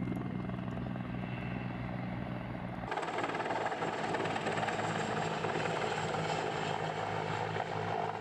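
Aircraft engine noise: a steady whine over a pulsing low beat, which changes abruptly about three seconds in to a louder, hissier engine sound.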